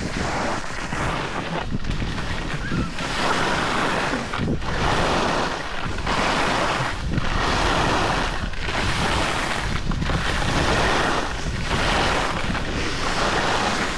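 Wind rushing over the microphone and the scraping hiss of a board sliding on packed snow while riding downhill. The noise swells and eases about every second and a half, as with linked turns.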